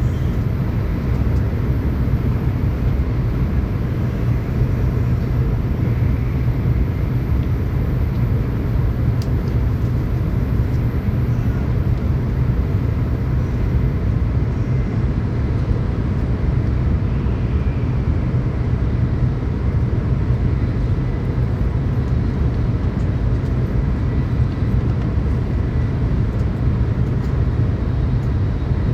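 Tokaido Shinkansen train running at speed, heard from inside the passenger car: a steady, unbroken low rumble.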